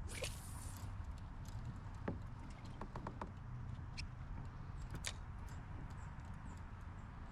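Small clicks and knocks of fishing gear being handled in a kayak over a low steady rumble of wind and water, with a brief rushing sound at the very start.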